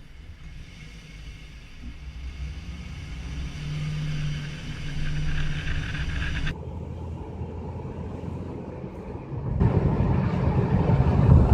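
Car tyres running over a melody road, the grooves in the surface humming low sustained notes of a tune over the road noise. The sound changes abruptly twice and is louder in the last couple of seconds.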